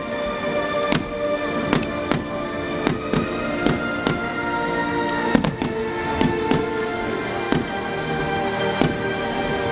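Fireworks going off in an irregular run of sharp bangs, roughly two a second, over music with long sustained notes.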